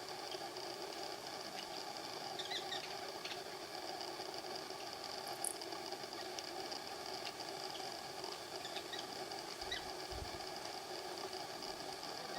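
Steady outdoor background drone, with a few faint, short, high chirps scattered through it.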